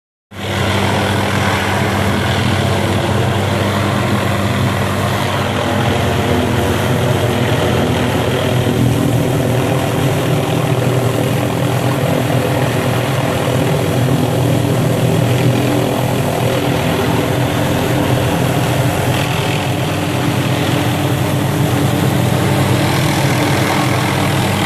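Helicopter hovering, its rotor and engine giving a loud, steady drone.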